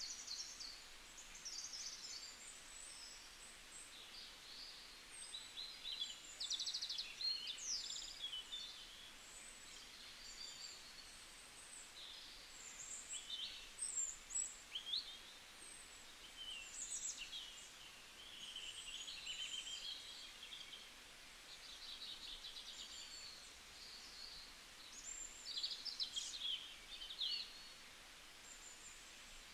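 Small birds chirping and twittering, a steady run of short high calls with a few quick trills.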